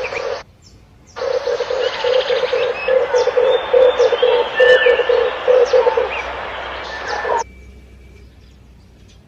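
Red turtle dove cooing: a rhythmic run of low coos, about two a second, over a hiss with small chirps from other birds. The recording cuts out about half a second in, comes back near one second, and drops to a faint hiss past seven seconds.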